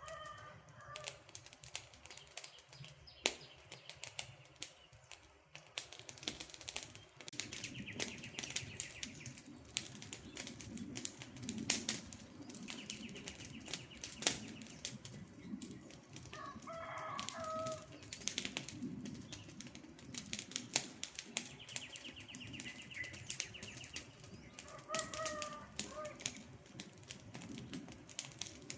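Wood campfire crackling with frequent sharp pops and a low rumble of flames, while a bird calls three times and a fast high trill repeats three times in the background.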